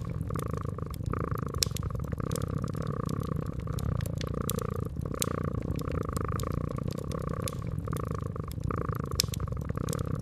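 Domestic cat purring steadily, swelling and fading with each breath, over a wood fire crackling with frequent sharp pops.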